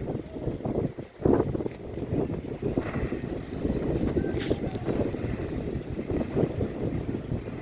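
Wind buffeting the microphone in uneven gusts over the running engines of motorboats crossing the inlet.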